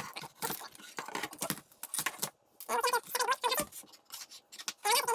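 Irregular small clicks, taps and scrapes of hands and tools handling the plastic instrument cluster housing, with a brief muttered voice a few times.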